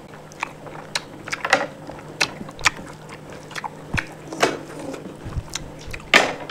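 A person eating close to the microphone: chewing and crunching food, heard as short, sharp clicks and crunches at irregular times, about two a second, the loudest near the end.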